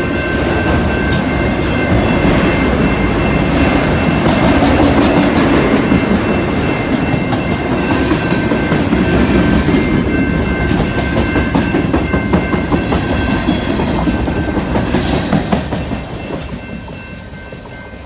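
Freight cars rolling past at track side, wheels clacking over the rail joints, with a grade-crossing warning bell ringing steadily. The rolling noise fades as the last car passes near the end.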